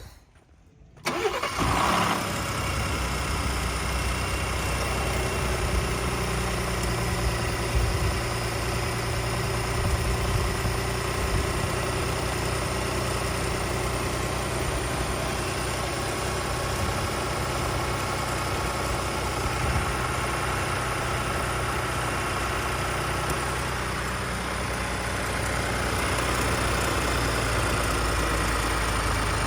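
2018 Ford F-150 engine cold-starting about a second in, flaring briefly, then idling steadily and a little louder near the end, with the start-up rattle and timing chain noise that the title reports, the sign of a worn timing chain or its tensioners.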